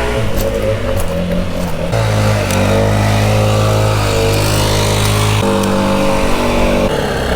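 Stihl MS 261 two-stroke chainsaw running steadily, its engine pitch shifting in steps twice as it works through the wood.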